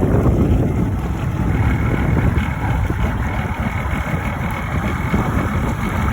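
Motorboat engine running steadily under a dense low rumble of wind on the microphone, with a faint steady whine entering about a second and a half in.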